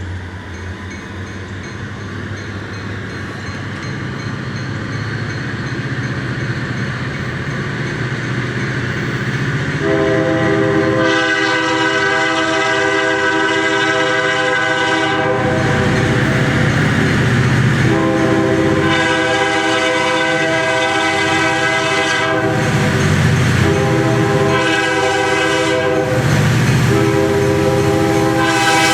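Huron & Eastern freight train with an EMD SD40-2 diesel locomotive in the lead, approaching with its engine and wheel rumble steadily growing louder. About eleven seconds in, its multi-chime air horn begins sounding four long blasts with short breaks between them.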